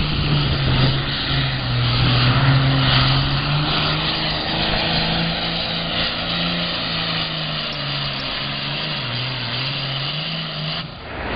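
Diesel engine of a super farm class John Deere pulling tractor running hard under load during a pull. The engine note holds steady, dips slightly and comes back up late on, then cuts off abruptly.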